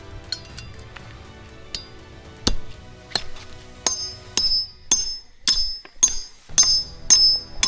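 Repeated metal strikes, a few scattered at first, then about two a second from halfway through, each with a short ringing tone.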